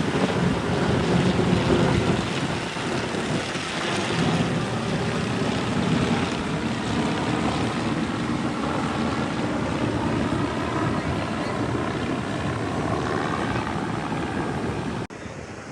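Propeller airplane flying past with its engine running steadily, wind buffeting the microphone. The sound drops off abruptly near the end.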